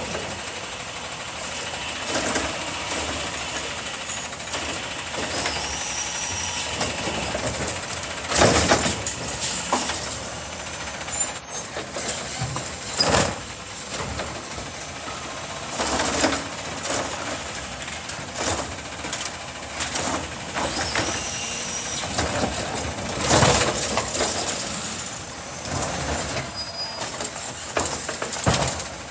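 Garbage truck running, with several sudden loud hisses of its air brakes.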